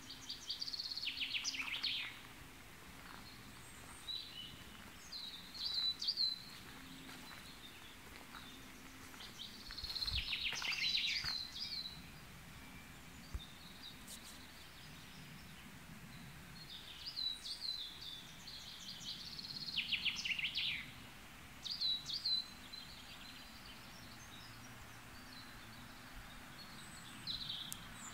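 Songbirds singing in short trilling phrases that recur every few seconds, over a steady faint background noise.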